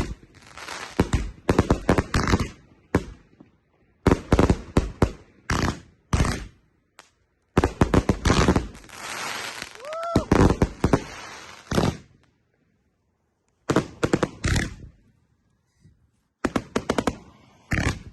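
Fireworks going off: volleys of sharp bangs and crackles in clusters, with a longer stretch of dense crackling about eight seconds in and a brief whistle near ten seconds. The bangs stop for about a second and a half around twelve seconds in, then start again.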